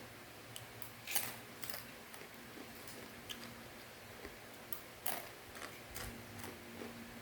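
Irregular crunching and crackling of crunchy fried macaroni snack being chewed, the loudest crunches about one second in and about five seconds in, over a faint steady low hum.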